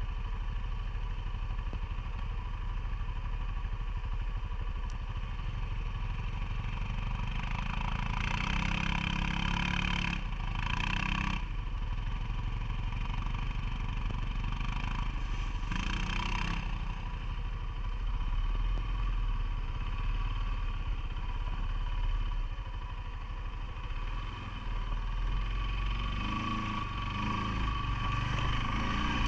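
CFMoto ATV engine running steadily, heard from on board, with a few short stretches of louder, rougher noise in the first half.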